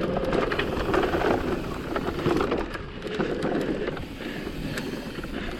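Intense Tazer electric mountain bike rolling fast down a dirt trail: steady tyre noise over the ground with many small rattles and knocks from the bike, and wind on the microphone.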